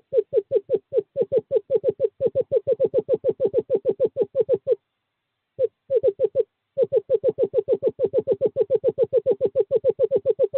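Male screech owl giving its long trill, a rapid even run of same-pitched whistled notes at about six or seven a second. The trill breaks off briefly near the middle and then resumes. It is a courting call to a female.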